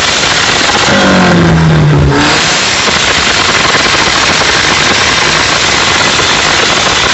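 Nissan K24 engine revving hard and loud: about a second in its note drops away, then it runs on loud and rough with no clear pitch.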